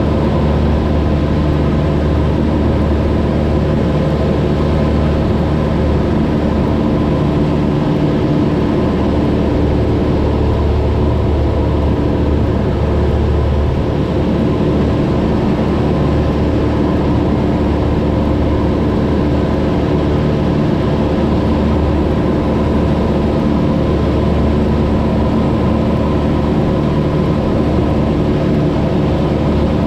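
Cessna 172's piston engine and propeller droning steadily in cruise flight, an even, unchanging hum.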